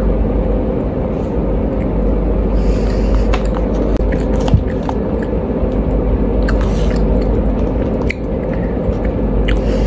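Close-up chewing of a flatbread-wrapped chicken roll, with wet mouth clicks and one sharper click about four and a half seconds in. Under it runs a loud, steady low machinery hum, the noise of the flour-mill production she works beside.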